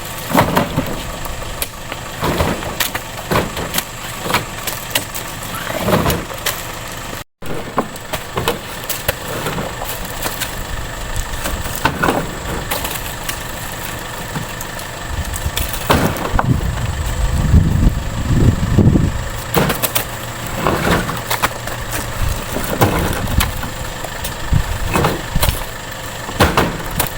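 An engine running steadily, with frequent knocks and rattles over it.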